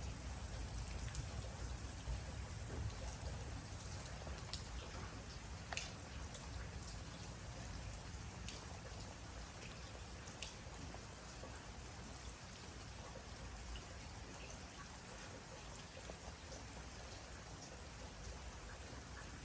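Steady rain falling, an even hiss with individual drops ticking now and then. A low rumble fades out over the first few seconds.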